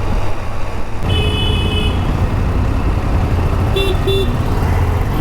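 Steady low rumble of the motorcycle's engine and road noise in the helmet mic, with traffic horns honking: one long toot about a second in, then two quick short beeps past the middle.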